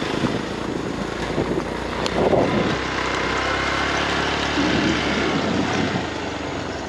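A vehicle running steadily on an off-road track, engine noise mixed with road noise.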